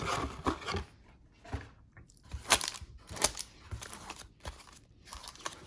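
Crinkling and tearing of a trading-card box's packaging being opened by hand, in short irregular crackles.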